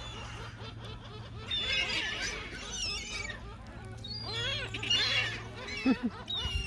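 A group of gulls calling over one another, with harsh wavering cries in two bouts, the first about a second and a half in and the second about four and a half seconds in.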